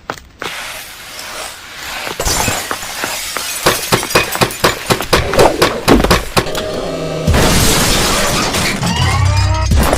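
Cartoon action-battle sound effects: a crash of shattering glass and debris with a rapid run of sharp impacts, then from about seven seconds a loud continuous rumbling destruction with a few sliding metallic tones near the end.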